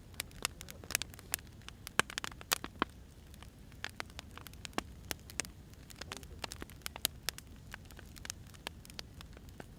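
Wood fire crackling: irregular sharp pops and snaps of burning firewood over a low steady rumble.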